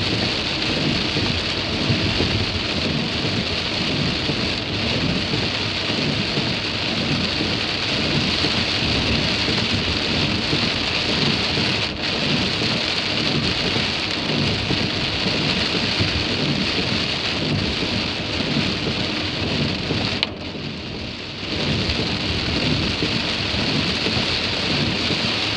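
Heavy rain pelting down on a car, a dense steady hiss over a low rumble; it drops away briefly about twenty seconds in, then comes back.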